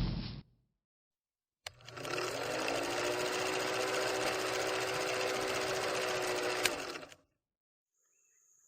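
A steady mechanical buzz, like a small motor, starting about two seconds in with a brief rise in pitch, holding one even pitch, then cutting off suddenly about five seconds later.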